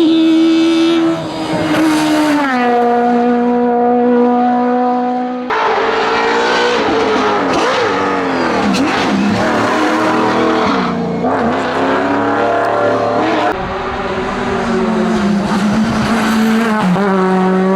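Race car engine running hard at high revs, its pitch dropping in steps as it shifts up through the gears and rising and falling between shifts.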